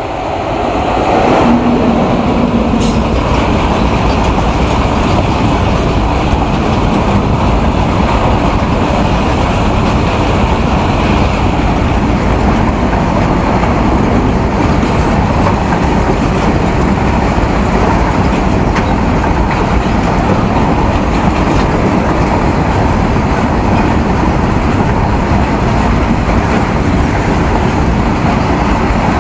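Indian Railways goods train of covered boxcars rolling past close by, a steady loud rumble and rattle of wheels on the rails. The sound swells about a second in as the electric locomotive draws level, then holds steady as the wagons pass.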